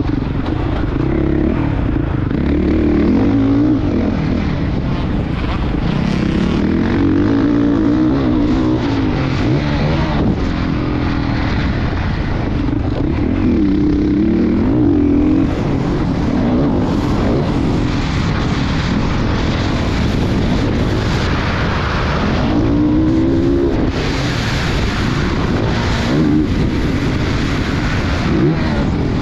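Honda CRF450 motocross bike's single-cylinder four-stroke engine revving hard, its note repeatedly rising and falling as the throttle opens and shuts, with a sharp rising rev a little past the two-thirds mark.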